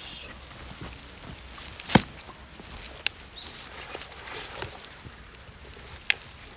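Three sharp snaps or knocks over light rustling, the loudest about two seconds in, smaller ones about a second later and near the end.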